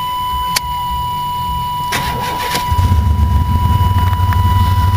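Chevrolet S-10 Blazer's rebuilt V6 engine being cranked by the starter, catching about two and a half seconds in and settling into a loud, steady low rumble through a battered muffler that needs replacing. A steady high-pitched warning tone sounds throughout.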